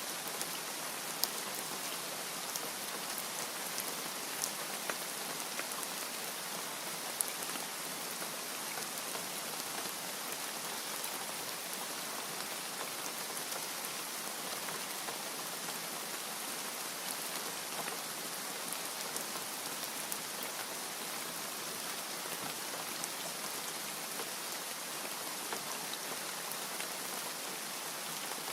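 Steady rain falling, an even hiss with scattered sharp drop ticks spattering on a surface.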